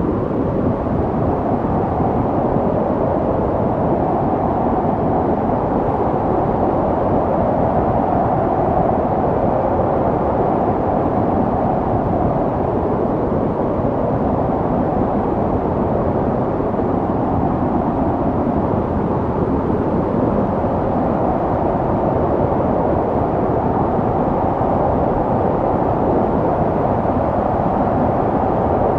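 Snowstorm wind blowing steadily: a low, even rushing noise with no gusts or breaks.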